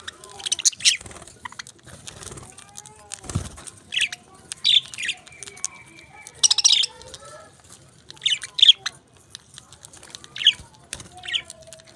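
Pet parakeets chirping and squawking in short, sharp, high calls, often in quick pairs, every second or so. There is a low thump about three seconds in.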